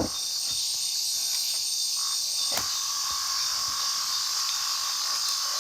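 Nighttime chorus of insects and frogs: a steady, high-pitched buzzing trill that does not change, with a lower steady trill underneath. One faint knock sounds about two and a half seconds in.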